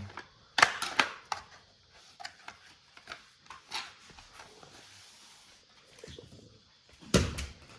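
Plastic toys being handled and set down on a play surface: scattered clacks and knocks, with a louder cluster of knocks near the end.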